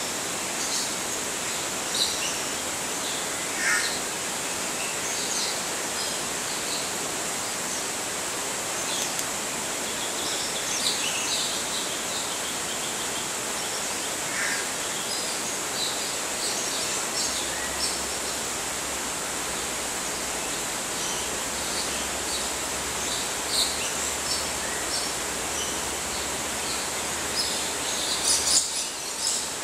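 Steady outdoor background hiss with a constant high-pitched drone, and short chirps from other small birds scattered throughout. A brief flurry of louder sounds comes near the end.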